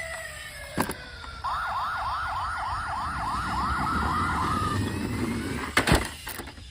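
Toy emergency vehicle's electronic siren sounding a fast yelping wail, about three sweeps a second, for a few seconds. Sharp clicks come just before it and near the end, and a falling tone fades out at the start.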